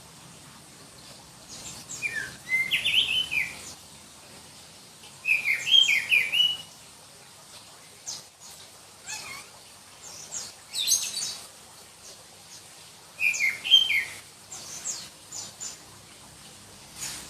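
Oriental magpie-robin of the black-chested Bornean form (kacer dada hitam) singing: shrill, whistled phrases about a second long that slide up and down in pitch, coming every few seconds with short high notes between them.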